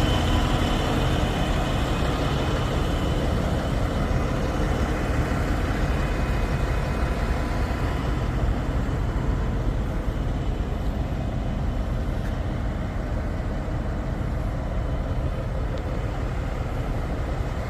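Diesel engine of a 2026 Peterbilt 567 semi truck running steadily, its sound concentrated low. The higher hiss thins out about halfway through.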